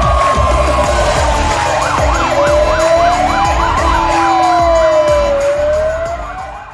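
Fire-engine sirens sounding together. A wail slides slowly down, up and down again, while a faster yelp cycles about three times a second through the middle, over a thudding music beat. The sirens fade near the end.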